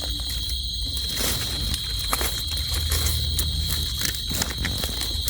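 Night insects, crickets or similar, trilling in a continuous high-pitched drone, over a low rumble and a few faint clicks of handling.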